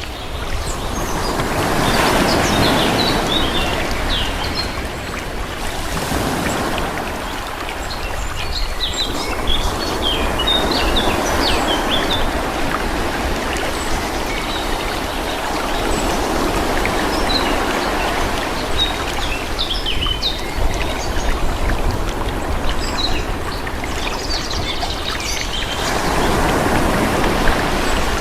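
Calm sea waves washing in and drawing back, the rush swelling and fading every few seconds, with small birds chirping over it.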